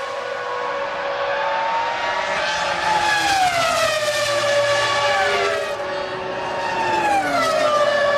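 Formula One cars' V10 engines at high revs, the pitch sliding down and levelling off again several times as cars pass by or shift down.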